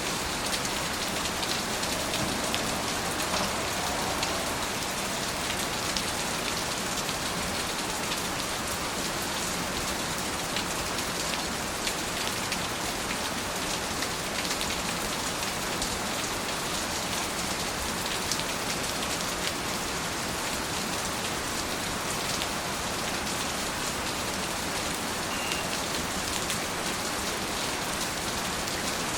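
Steady rain falling, an even hiss of drops with fine individual drop ticks throughout.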